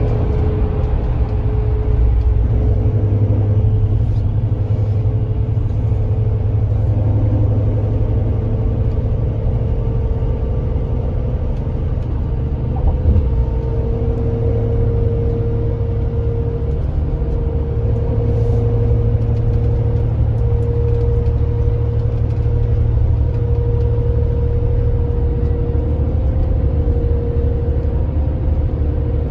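Kia Granbird Sunshine coach's diesel engine running steadily under way, a continuous low rumble with a steady hum above it.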